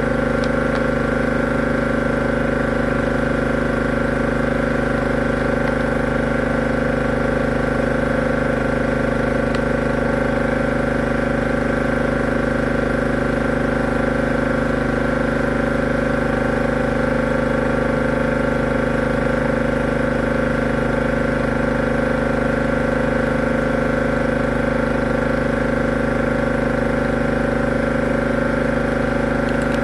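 High-pressure drain jetter running steadily, its motor and pump holding one constant pitch while it jets water into the blocked drain.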